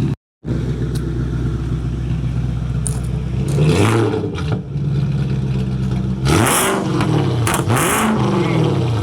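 BMW E39 540i's 4.4-litre V8 idling through a 3-inch straight-pipe exhaust with hollowed-out cats and no mufflers, then revved: one blip about halfway through and a couple of quicker blips later, each pitch rising and falling back to idle.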